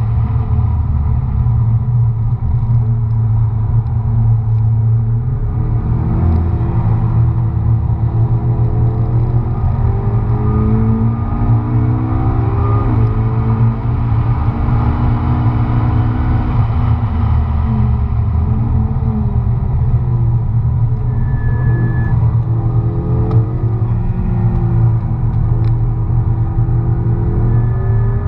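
McLaren MP4-12C's twin-turbo V8 heard from inside the cabin at track speed, its note rising and falling again and again as the car accelerates and shifts, over a heavy steady low rumble.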